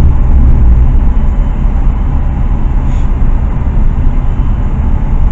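Car engines running with a steady low rumble, no revving or distinct pitch changes.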